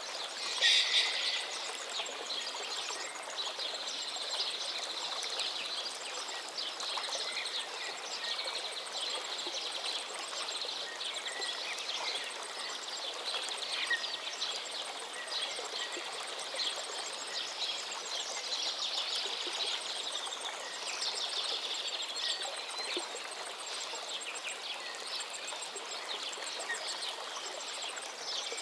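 Outdoor lakeside ambience: many birds chirping and calling over a steady background hiss, with one louder bird call about a second in.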